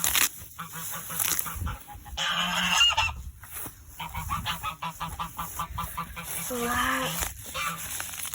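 Domestic geese honking repeatedly, many short calls overlapping, with a brief lull about four seconds in.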